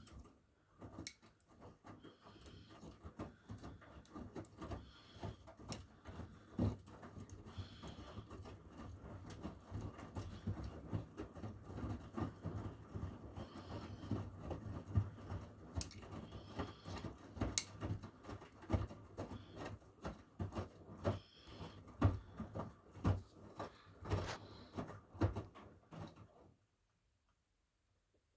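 Miele W1 front-loading washing machine tumbling its wash: the drum turns while wet laundry and water slosh and thud inside, with irregular knocks and clicks. The drum stops abruptly near the end.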